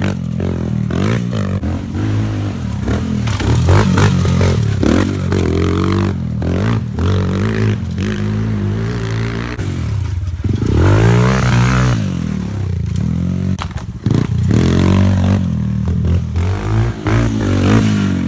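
Thumpstar 110 pit bike's small single-cylinder four-stroke engine being ridden, its revs rising and falling again and again, with a long climb and drop about ten seconds in. Scattered knocks and clatter come through over the engine.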